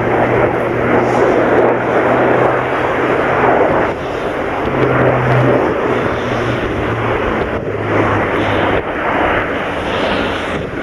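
Loud noise of an Airbus A400M's four turboprop engines and propellers in a display flypast: a rushing noise over a steady low propeller drone. The drone rises in pitch briefly about halfway through and falls lower in the last few seconds.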